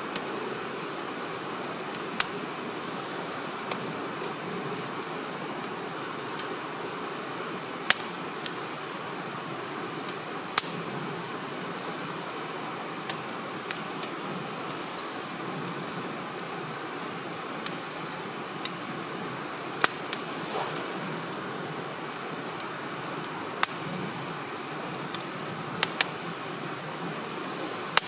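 Firewood burning, with a steady soft rush of flame. About twenty sharp crackles and pops from the burning wood come at irregular intervals.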